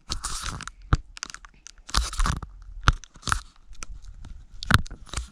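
Close handling noise on the GoPro as it is fitted and adjusted: a string of sharp clicks and knocks mixed with short crunchy rustling bursts.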